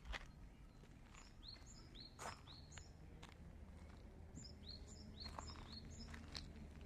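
A bird calling faintly: two runs of quick, high notes, each note sliding downward, about four in the first run and five in the second, with a few scattered soft clicks between.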